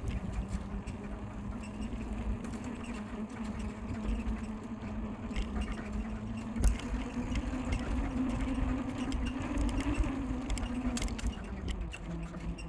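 Bicycle squeaking and creaking as it is ridden, its parts squeaky after being left out in the rain, over a low rumble.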